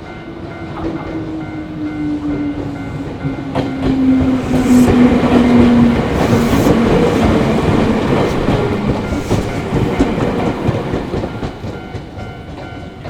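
An electric train passes over a level crossing, its wheels clattering over the rail joints while a motor whine falls slowly in pitch. The crossing bell rings steadily throughout. The train is loudest in the middle and fades near the end.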